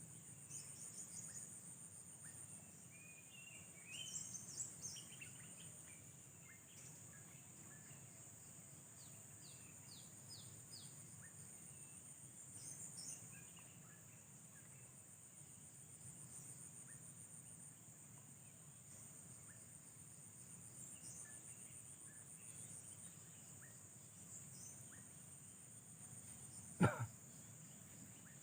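A faint, steady, high-pitched chorus of insects, crickets among them, with scattered short bird chirps. One sharp click near the end.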